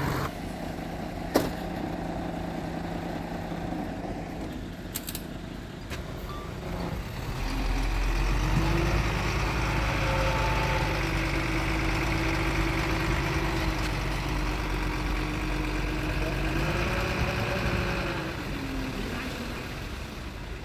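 Diesel engine of heavy earthmoving machinery running. It revs up after several seconds, holds at higher revs, then drops back near the end. There is one sharp click early on.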